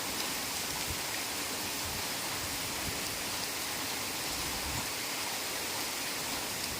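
Heavy rain falling steadily on forest foliage, an even hiss of many drops with no distinct events.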